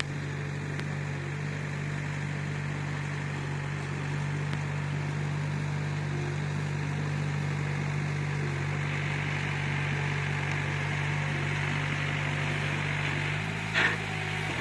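Bulldozer's diesel engine running steadily at work, its note shifting near the end, with one short, sharp, loud noise just before the end.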